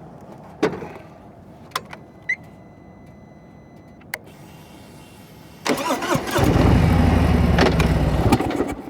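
Motorcycle engine being started, catching and running steadily at idle for a couple of seconds before the sound cuts off suddenly. A few sharp clicks come before it.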